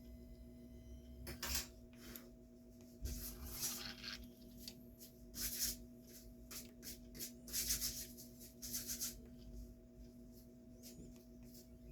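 Irregular rubbing and scraping handling noises, a few seconds apart, over a steady electrical hum.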